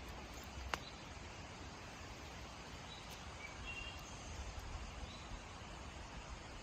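Outdoor ambience: a steady background hiss and low rumble with a few faint, short bird chirps, and a single sharp click about three-quarters of a second in.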